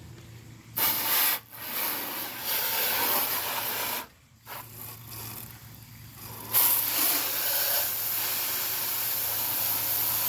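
Garden hose spray nozzle spraying water over a window air conditioner, not yet on its jet setting. The spray starts about a second in, cuts out briefly around four seconds, runs weaker for a couple of seconds, then sprays steadily and louder from about six and a half seconds.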